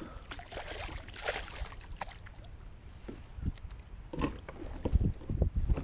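Scattered knocks and thuds of gear being handled in a kayak, a few short bumps against the hull, bunching up between about four and five and a half seconds in.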